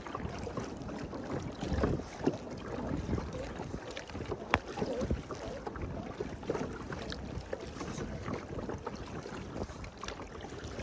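Kayak paddles dipping and splashing in the water in irregular strokes, with wind buffeting the microphone.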